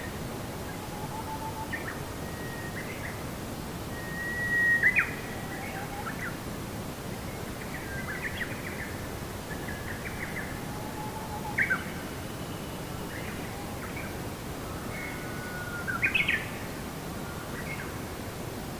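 Several birds chirping and whistling intermittently over a steady background hiss, with louder calls about five, twelve and sixteen seconds in.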